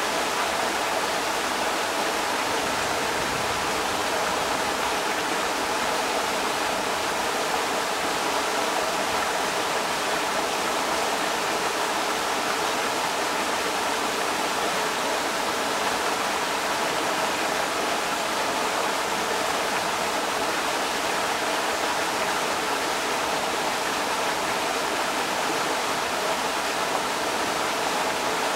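Creek water rushing over rocks: a steady, even splashing that does not change.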